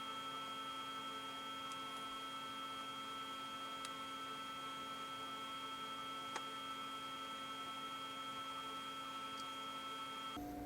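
A steady electrical hum made of several even tones, with a few faint ticks. Near the end the hum changes abruptly to a different set of tones.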